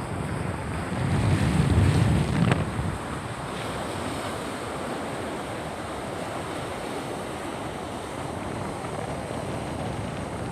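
Steady rush of water with wind buffeting the microphone, the buffeting loudest for a couple of seconds about a second in.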